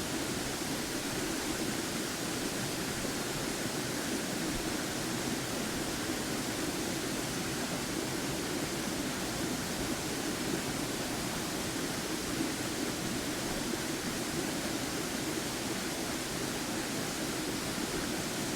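Steady rushing of a waterfall close by, an even wash of falling water with no breaks.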